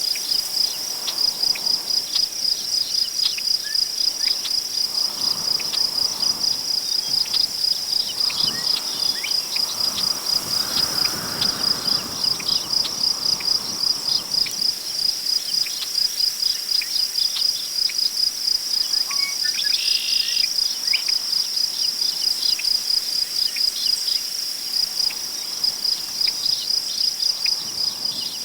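Crickets chirping steadily in a fast, even pulse, about three or four chirps a second, with tall prairie grass rustling in the wind as a gust swells and fades about a third of the way in. A brief bird call comes about two-thirds of the way through.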